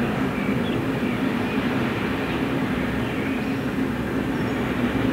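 Freight train of open box wagons rolling through the yard, a steady noise of wheels on track.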